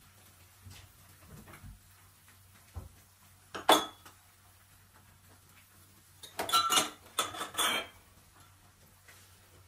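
Dishes and cutlery clinking: one sharp clink, then a short run of clattering clinks a few seconds later.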